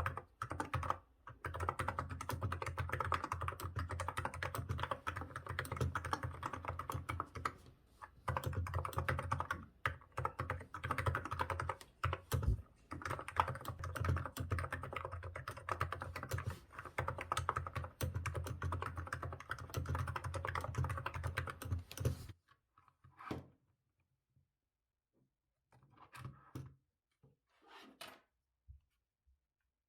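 Typing on a Hansung GK868B wireless keyboard with 35 g electrostatic capacitive (contactless) switches: fast, continuous key strokes. The typing stops about 22 seconds in, leaving only a few faint, scattered clicks.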